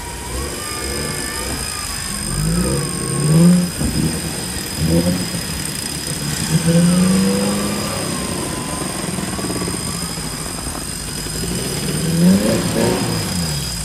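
Off-road 4x4 engine revving in several short bursts under load as the vehicle claws through a deep mud rut. The revs rise and fall, loudest a few seconds in and again near the end.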